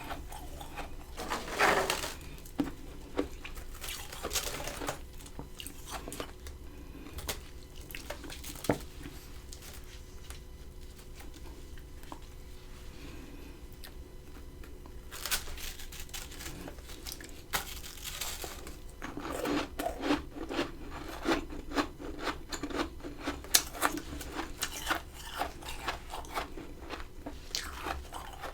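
Close-miked biting and chewing of freezer frost: crunchy bites in clusters, a quieter stretch of scattered small clicks in the middle, then dense continuous crunching from about fifteen seconds in.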